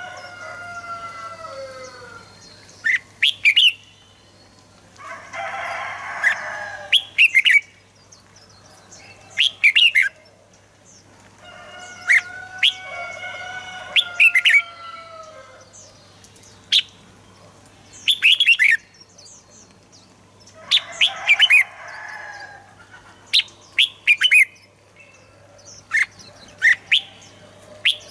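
Red-whiskered bulbuls singing: short, loud whistled phrases every second or two, mixed with harsher chattering calls and slower falling notes.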